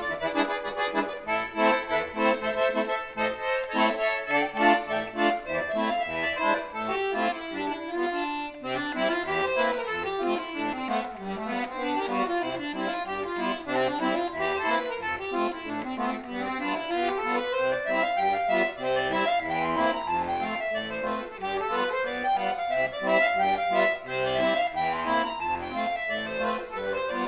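Accordion playing solo: a fast, flowing piece of running notes that sweep up and down in repeated waves, with chords underneath.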